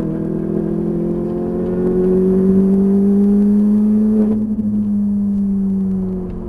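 Ferrari 458 Italia's V8, heard from inside the cabin, pulling under acceleration with its note climbing steadily. About four seconds in the driver lifts off the throttle and the note eases and slowly falls as the car slows.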